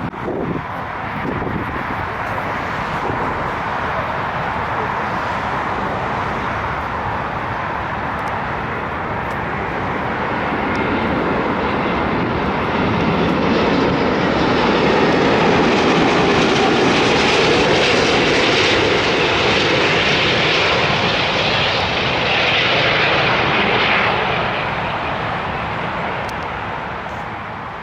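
Arriving airliner on approach passing by: a broad engine rush that swells to its loudest about halfway through, holds, then fades away near the end.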